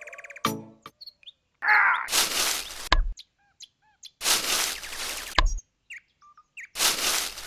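Birds chirping, broken by three loud bursts of hissing noise about a second long, each ending in a sharp click.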